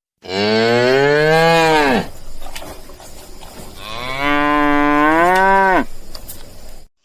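A cow mooing twice. Each moo is a long call of about two seconds that holds its pitch and then drops away at the end, with a short pause between the two.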